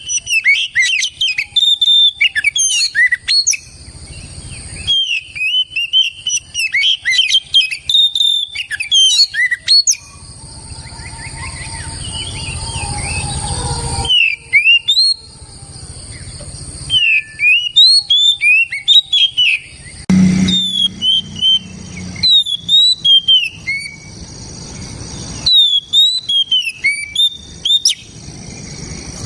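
Oriental magpie-robin (kacer) singing loud, full song: rapid runs of clear whistled notes in phrases a few seconds long, with short pauses between. A steady high hiss runs underneath.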